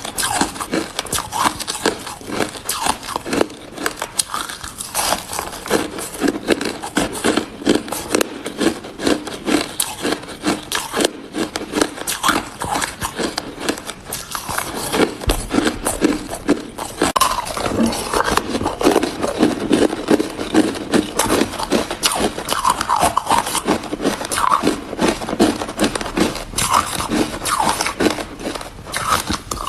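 Hard ice being bitten and chewed close to the microphone: a dense, continuous run of sharp cracks and crunches, heavier in the second half.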